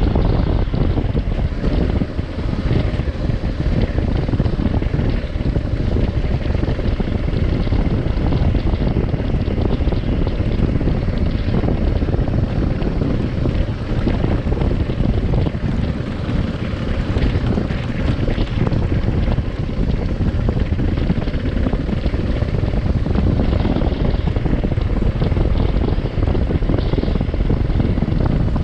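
Adventure motorcycle riding along, its engine running under heavy wind rush on the microphone. The sound is loud and steady, with no gear change or stop.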